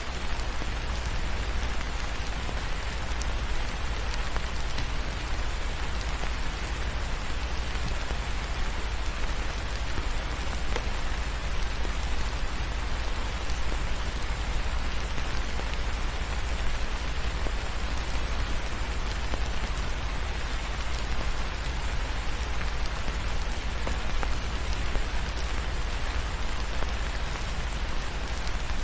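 Steady rain falling, an even hiss of drops, with a deep, steady low rumble underneath.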